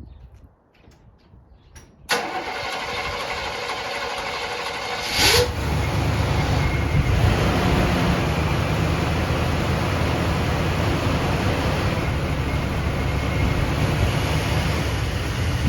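1972 Chevrolet Monte Carlo's 350 small-block V8 with a two-barrel carburettor being cold-started: the starter cranks for about three seconds from two seconds in, the engine fires with a short loud burst, then settles into a steady fast idle on the choke.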